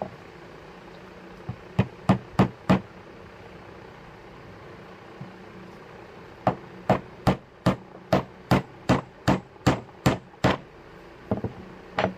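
Hammer blows on wood: four quick strikes, a pause, then a steady run of about a dozen strikes at roughly three a second, and a couple more near the end.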